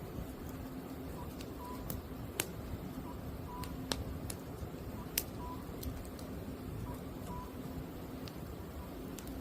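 Common cuckoo calling its two-note 'cuck-oo' over and over, about every second and a half, over a crackling wood fire with sharp pops now and then.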